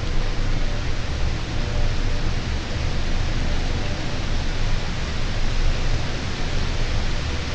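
Steady, even hiss of rain, with a low, fluctuating rumble underneath.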